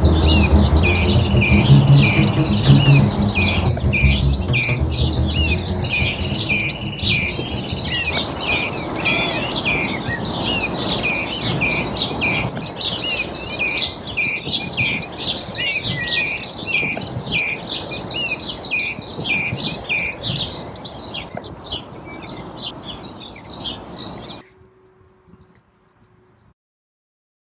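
A dense chorus of songbirds chirping and trilling rapidly, with low music notes fading out in the first few seconds. Near the end the chorus falls away to a few high chirps, then stops abruptly.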